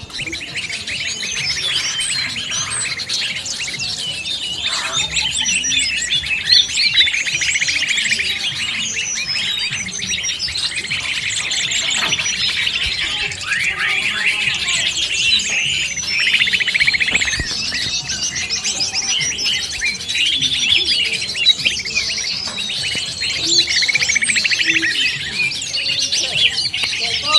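A dense, continuous chorus of many small birds chirping and trilling over one another, mixed with green leafbird (cucak ijo) song. This is a 'noisy birds' lure recording, played to call wild birds in.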